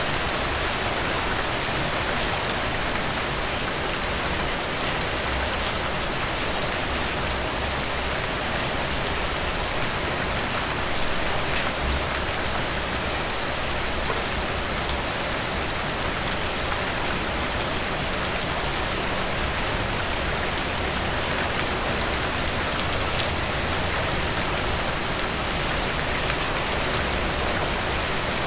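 Heavy rain falling steadily, with many close drops pattering on a hard surface.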